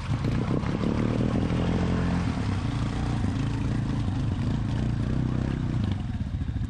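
ATV engine running steadily as the quad works through deep mud, with some clatter in the first second or so.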